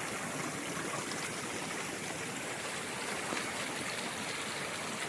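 Mountain stream of clear water running and trickling over rocks: a steady, even rush of water.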